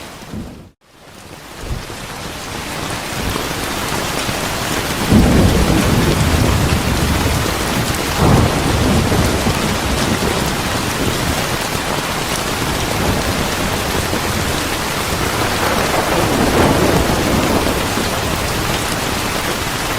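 Steady heavy rain with rolling thunder rumbles, loudest about 5 seconds in, again near 8 seconds and around 16 seconds. The sound drops out almost to silence just under a second in, then the rain fades back up.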